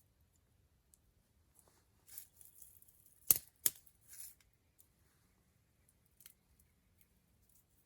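Wood fire crackling: a few short hissy crackles around two sharp pops a little after three seconds in, then sparse faint ticks.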